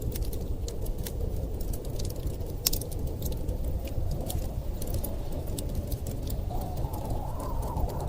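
Wood fire crackling and popping in irregular sharp snaps over a steady low rumble of storm wind. A faint whistle of wind rises near the end.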